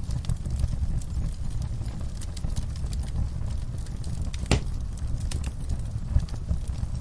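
Wood fire burning in a fireplace: a low steady rumble of flames with scattered crackles and one sharp, louder pop about four and a half seconds in.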